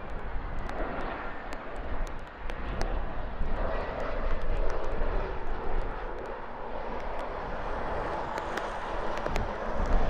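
Turbofan engines of a Dassault Falcon 2000 business jet arriving, a steady jet rush that grows louder about a third of the way in, with scattered sharp ticks over it.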